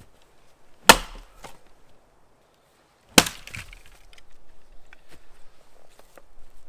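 Two axe blows striking a small tree trunk, a little over two seconds apart, each a sharp chop, followed by lighter crackling and rustling of wood and brush.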